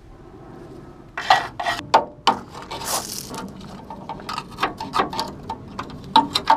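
Screwdriver tapping and scraping on the rusty steel front dumb iron of a Land Rover Series III chassis: scattered ringing metallic clinks, a short scrape about three seconds in, then quick taps, about four a second, near the end.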